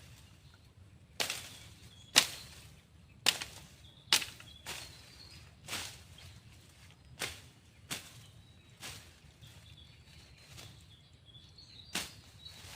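Repeated sharp strikes, about eleven of them at uneven intervals of roughly a second, each dying away quickly.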